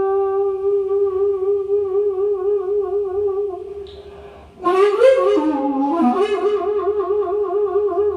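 Daegeum, the Korean large bamboo transverse flute, playing slow improvised music: a long held note with a wide, slow vibrato that fades away about three and a half seconds in. After a short pause a new note attacks strongly near the five-second mark, bends down in pitch, then comes back up to the held note with vibrato.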